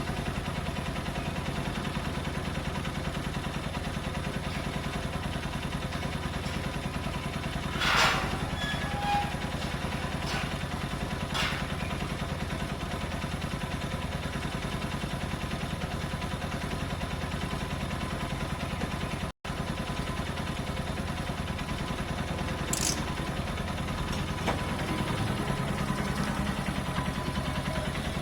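Benelli Keeway 125cc motorcycle engine idling steadily. A few sharp clicks sound over it, about eight seconds in, again a few seconds later, and once more near the end.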